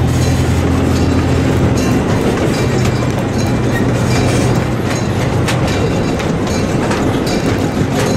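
Amusement-park train heard from one of its open passenger cars, running along a narrow-gauge track. A low engine hum carries through the first half and fades, under a steady rattle from the cars, with scattered clicks from the wheels on the rails.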